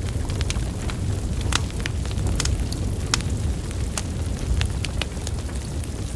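Wood fire burning: a steady low rumble of flames with frequent sharp crackles and pops from the burning logs, scattered irregularly.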